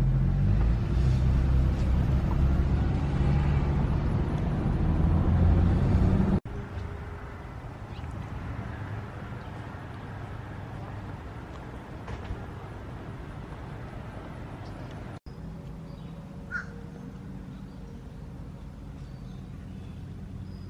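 A loud, low vehicle rumble that cuts off suddenly about six seconds in, followed by quieter outdoor ambience with a short bird call near the end.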